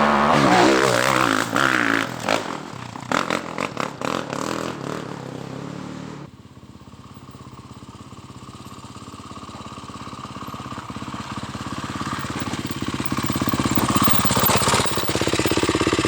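Husqvarna TE 310 single-cylinder four-stroke dual-sport engine revving hard up close with clattering knocks. About six seconds in the sound changes abruptly to a steady engine note that grows louder as the bike climbs a hill, held wide open in third gear.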